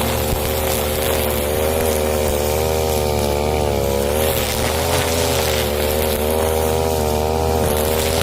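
Husqvarna 541 two-stroke brush cutter running at high revs, its engine pitch rising and falling slightly.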